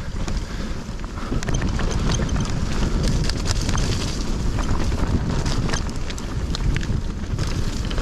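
Mountain bike descending a dirt trail: wind buffeting the microphone, with a constant rattle and clicking from the bike and its tyres over rough ground.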